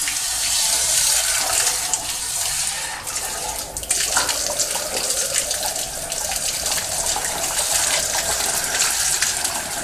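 Water from a homemade washout wand spraying steadily through the inside of a sectional steam boiler, a continuous rushing hiss.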